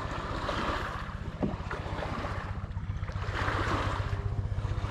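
Water swishing around a kayak in regular swells about every one and a half seconds, over a low rumble of wind buffeting the microphone.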